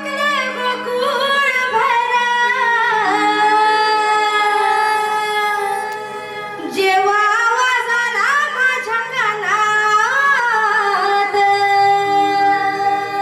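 A woman singing a Marathi mavshi geet folk song in long, ornamented, gliding phrases over steady held accompanying notes.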